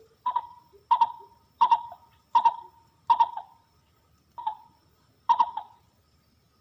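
A dove calling: seven short, sharp cooing notes, roughly one every 0.7 s, with a slightly longer pause after the fifth.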